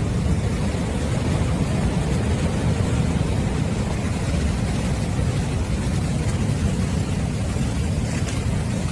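A surge of water and ice from a burst ice dam rushing through frozen terrain, heard as a loud, steady, low roar.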